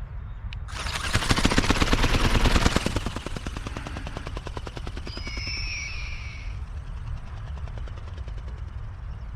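Go Go Bird Eagle RC ornithopter's electric drive and flapping wings, a fast, even buzzing whir. It is loudest in the first few seconds, then carries on more faintly. A brief high squeal comes in around five seconds in.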